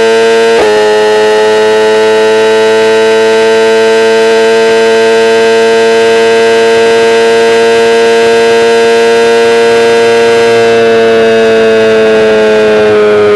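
BMW S1000RR's tuned inline-four engine held at high revs, a loud high-pitched note with a brief dip about half a second in. Its pitch creeps slowly up, then falls away over the last few seconds as the revs drop.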